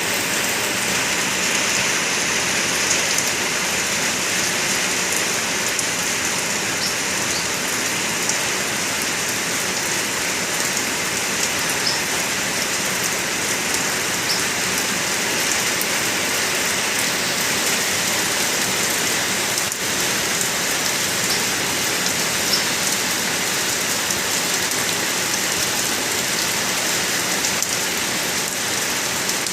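Steady rain falling, an even hiss at a constant level, with no birdsong standing out.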